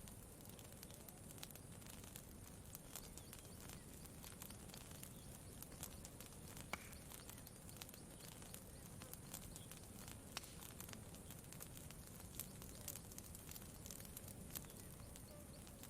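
Faint campfire crackling: scattered small sharp pops and snaps, a few louder ones, over a low steady rush.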